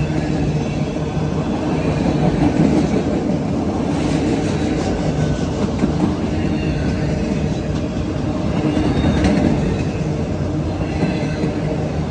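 Autorack freight cars rolling past close by: a loud, steady rumble of steel wheels on the rails, with clusters of clicks as the wheels cross rail joints.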